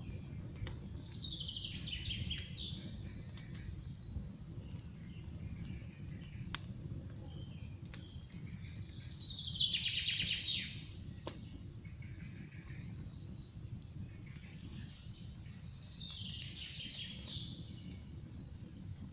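Campfire crackling with scattered sharp pops over a steady low rumble of burning. A songbird sings a short trilled phrase that falls in pitch, three times about seven seconds apart; the middle phrase is the loudest.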